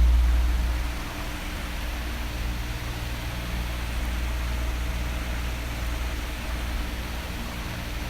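Electric fan running with a steady rushing hiss. A heavy low rumble fades about a second in, leaving a softer, even whoosh of moving air.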